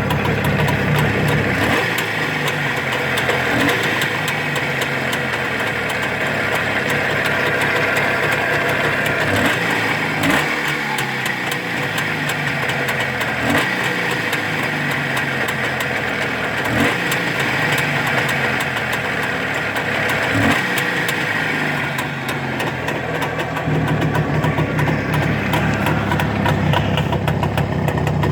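Freshly rebuilt Jawa 634's two-stroke twin engine running at idle, its note shifting for a long stretch in the middle with a few short louder moments.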